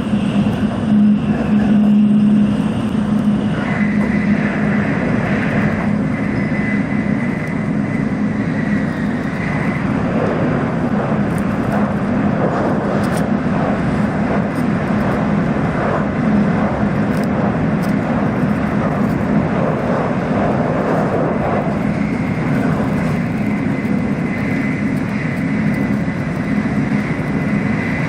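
Steady running noise inside a Tokaido Shinkansen carriage at speed: a constant rush and rumble with a steady low hum underneath.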